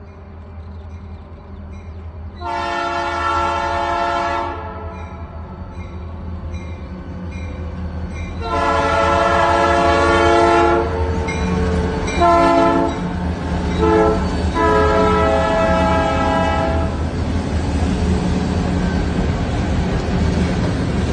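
Freight train's diesel locomotive horn sounding two long blasts, a short one, a brief toot and a final long blast, in the pattern of the grade-crossing signal. Under it the locomotives' diesel engines rumble louder as they approach and pass, and near the end the wheels clatter on the rails as the freight cars roll by.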